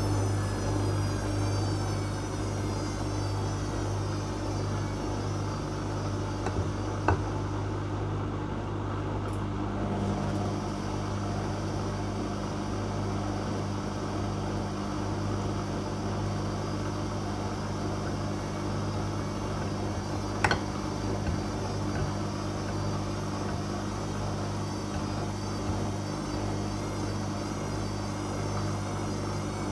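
Whirlpool Indiana 1400 washing machine running in its pre-spin stage: a steady motor hum with a whine that falls in pitch in the first seconds and later wavers up and down. Two sharp clicks, about 7 and 20 seconds in.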